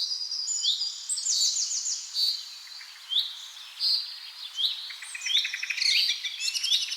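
Small songbirds chirping and singing: short, repeated whistled notes that hook downward, mixed with quick rattling trills, over a faint steady hiss.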